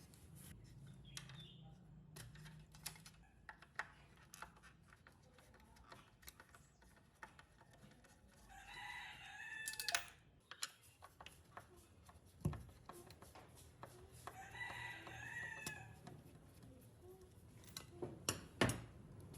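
A rooster crowing twice, each crow about a second and a half long, among scattered sharp clicks and knocks; the loudest two knocks come in the second half.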